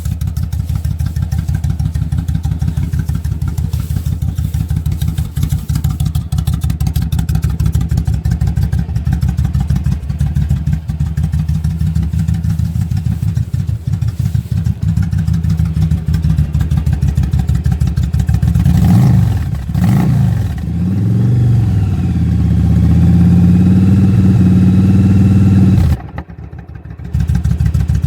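2008 Yamaha V Star 1100's V-twin engine running through gutted stock pipes fitted with Cherry Bomb glasspack mufflers: a deep, steady idle, then throttle blips a little past halfway and a held higher rev that cuts off briefly near the end.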